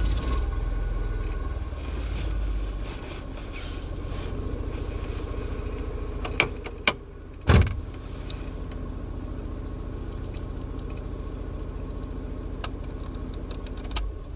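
Small car's 1.2-litre petrol engine running, louder for the first three seconds, then settling to a steady run. A couple of sharp clicks and one loud knock come about halfway through.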